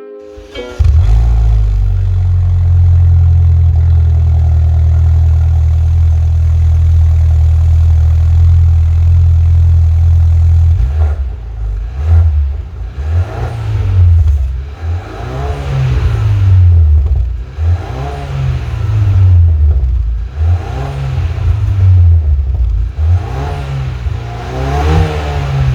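BMW Z4 with an aftermarket cat-back exhaust: the engine starts about a second in and idles steadily, then is blipped about seven times, each rev rising and falling about every two seconds. The exhaust is tuned for a sporty but restrained, low-volume deep tone.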